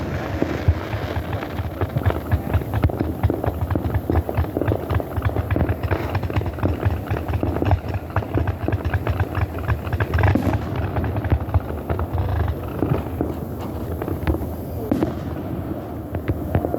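Fireworks going off in a dense, continuous barrage of bangs and crackles with deep booms underneath.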